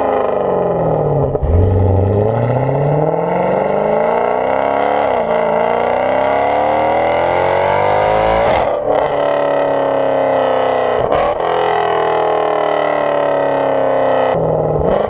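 Straight-piped Mercedes C63 AMG's naturally aspirated V8 being driven hard, its exhaust note climbing and falling, with sudden breaks in pitch several times as the revs change.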